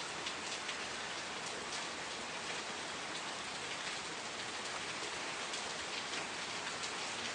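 Steady rain falling, a continuous hiss with many individual drops pattering.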